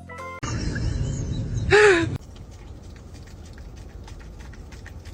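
An animal's single short call that rises and then falls, about a second and a half in, over a loud low rumble of noise; after it comes a quieter background with faint scattered clicks.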